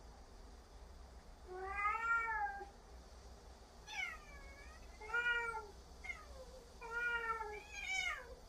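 Two domestic cats meowing back and forth, about five meows in turn. The first is a long drawn-out meow; a later one swoops down and back up; the last rises in pitch near the end.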